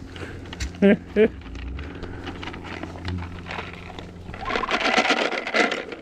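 Two short, loud calls from a farm animal in quick succession about a second in, then, near the end, a stretch of dense rustling and scraping as animals eat from a feed dish.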